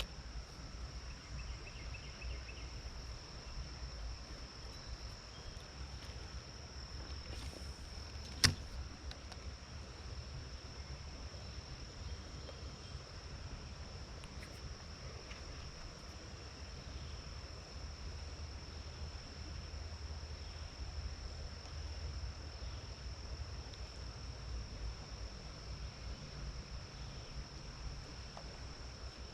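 Steady outdoor background: a constant thin high-pitched whine over a low rumble, with one sharp click about eight and a half seconds in.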